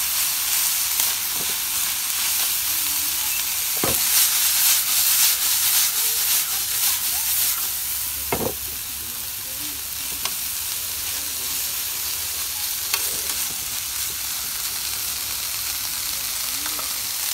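Chicken strips, bell peppers and onion sizzling in vegetable oil in a frying pan, a steady high hiss that swells for a few seconds a few seconds in. A few sharp knocks are heard over it.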